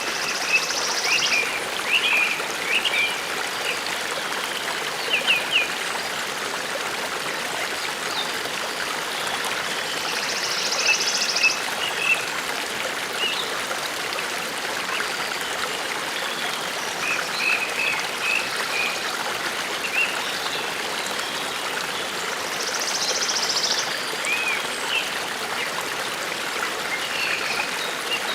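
Forest brook babbling steadily, with small birds chirping now and then and a short high buzzing call heard three times, roughly ten seconds apart.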